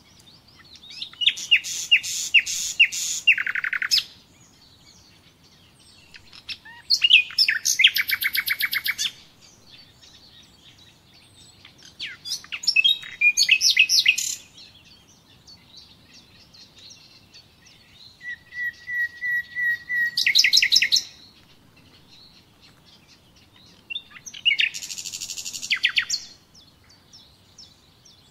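A songbird singing five short phrases of fast, high, repeated notes and trills, each two to three seconds long, with a few seconds' pause between them.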